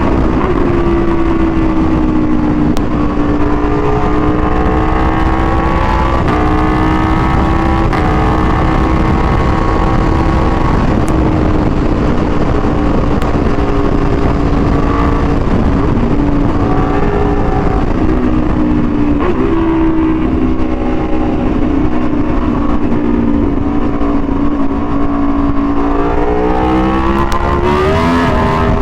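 Aprilia Tuono V4 1100's V4 engine through an SC-Project exhaust, heard from the bike while riding. It holds a fairly steady note with small shifts, then revs up near the end.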